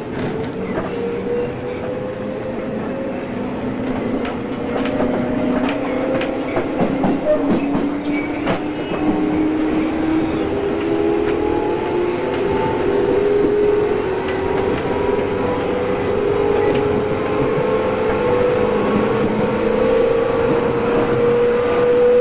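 JR East 113 series electric train accelerating: the traction motor and gear whine climbs steadily in pitch over the running noise, with clicks from the rail joints.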